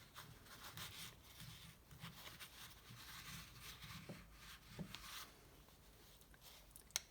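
Faint rubbing and handling of engine parts, with two light knocks midway and a sharp click near the end.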